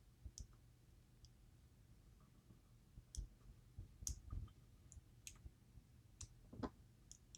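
Faint, irregular small clicks and taps of metal on metal as keypins are worked out of a DOM IX Twinstar lock plug with a small tool.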